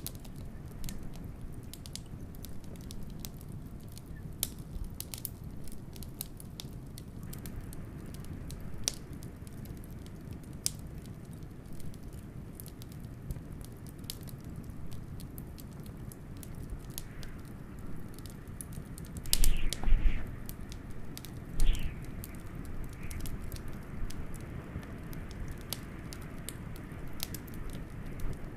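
Wood fire crackling with frequent small sharp pops and a few louder pops about two-thirds of the way through, over a steady low rumble of blizzard wind.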